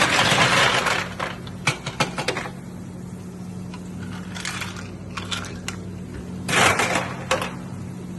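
Clattering and sharp clicks of objects being handled at a coffee machine, in two rattling bursts about six seconds apart with separate clicks between, over a steady low hum.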